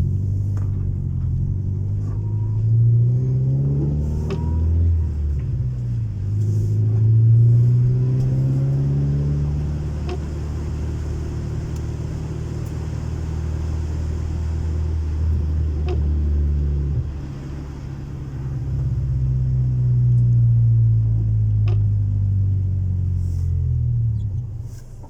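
Honda Civic 1.4iS's non-VTEC four-cylinder engine through a custom-made exhaust, accelerating. The engine note climbs in pitch in several pulls with brief drops between, then holds a steadier drone, dips once and climbs again before falling away near the end.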